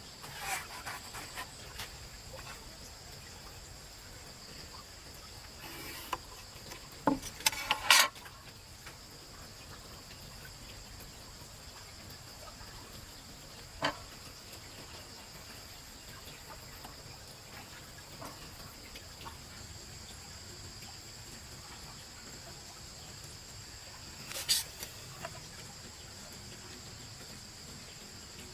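Steady high-pitched insect chirring in the background, with scattered sharp knocks and clicks over it, the loudest a quick cluster of knocks about seven to eight seconds in.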